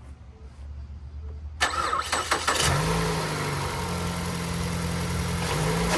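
2013 Ford Escape's port-injected four-cylinder engine cranked by the starter for about a second, then catching and settling into a steady idle. It is the first start after a new fuel injector was fitted to cure a cylinder 1 misfire.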